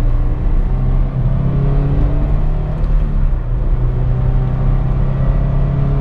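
2016 Scion FR-S's 2.0-litre flat-four engine pulling steadily as the car drives, heard from inside the cabin; its note steps up about a second in and drops back a little about halfway through.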